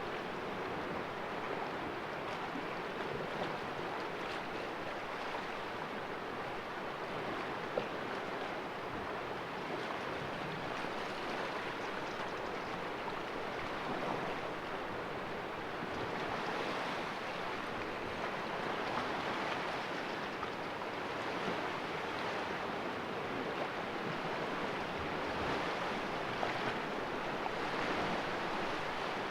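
Sea waves splashing against the rocks of a small cove: a continuous wash of surf that swells gently every few seconds.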